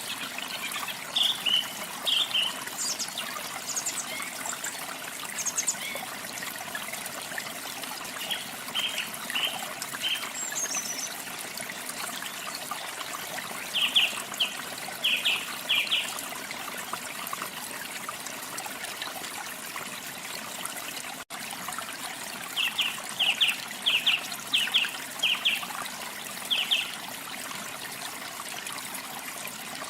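Steady running water of a waterfall, with small birds chirping over it in short runs of quick high notes, several times through. The water sound breaks off for an instant about two-thirds of the way through.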